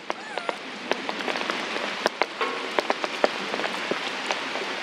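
Heavy rain falling on surfaces, a steady hiss full of sharp drip and tap sounds. Two brief high-pitched calls come through, one near the start and one about halfway.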